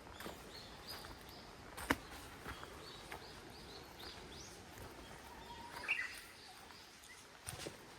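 A small bird calling in a quick run of short, high chirps over faint outdoor background noise. A sharp click comes about two seconds in, and a louder call near six seconds.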